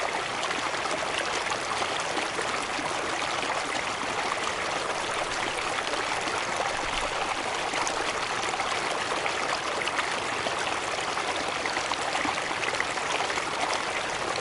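Running river water: a steady, even rush with no breaks.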